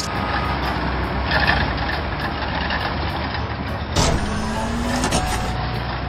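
Heavy vehicle engine running steadily: the engine and track sound of a cartoon bulldozer driving along. About four seconds in there is a sudden jolt, followed by a short rising whine.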